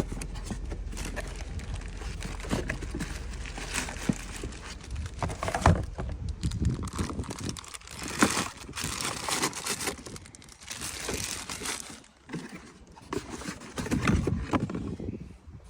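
Packaging crinkling and tearing as it is handled and opened, an irregular run of crackles with scattered sharp clicks.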